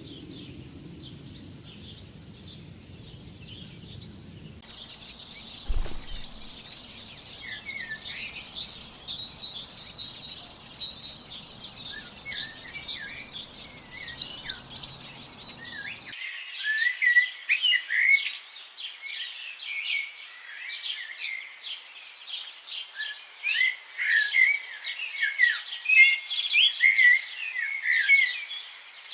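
Many small birds chirping and calling together in a dense chorus of short, quick chirps and whistles. The chorus is faint at first and grows busier and louder, with a single low thump about six seconds in.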